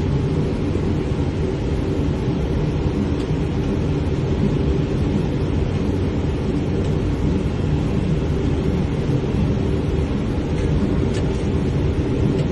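Steady low rumble of airflow and engines on a Boeing 777 flight deck during approach, with a faint steady hum in it.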